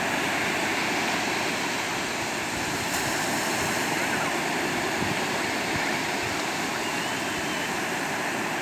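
Sea surf washing onto the shore in a steady, continuous rush of water.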